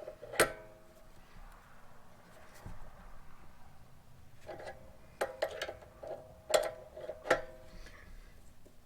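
Several sharp metal clinks, each ringing briefly: a ratchet and deep-well socket knocking on metal while a fitting is screwed into the pressure washer pump. One clink comes just after the start and a cluster of them comes in the second half.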